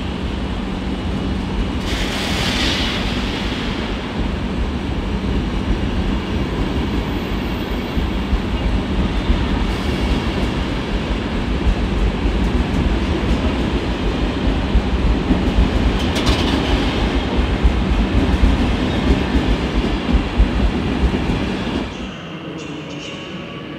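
Long-distance passenger train hauled by a PKP EP09 electric locomotive rolling along the station tracks: a steady rumble of wheels on rail with a low hum, two brief hisses, and sharper wheel clicks building toward the end. Near the end it cuts off suddenly to a much quieter rail sound.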